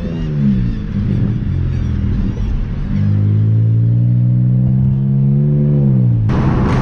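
Car engine revving: a short rev that drops away at the start, then a longer rev about three seconds in that climbs, holds for about two seconds and falls back. Near the end a loud rushing noise cuts in suddenly.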